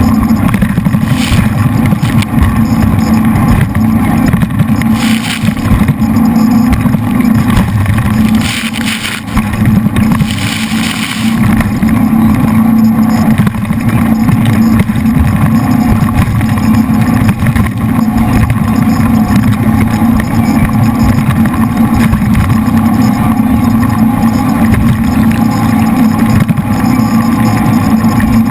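Jet boat's V8 engines running hard at speed, a steady loud drone that dips briefly about eight seconds in.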